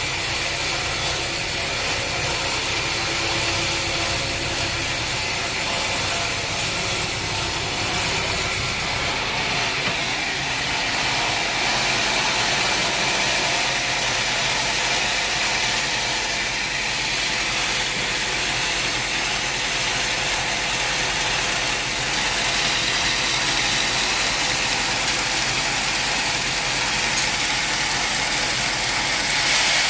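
Sawmill machinery running steadily, a dense mechanical clatter and whir; about nine seconds in, the deep rumble underneath drops away while the higher machine noise carries on.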